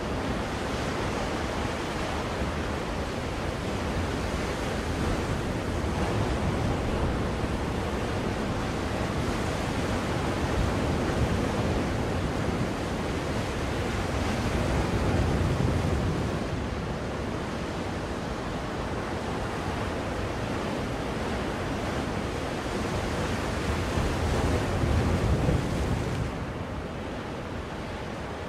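Ocean surf: a steady wash of breaking waves, swelling louder about halfway through and again near the end.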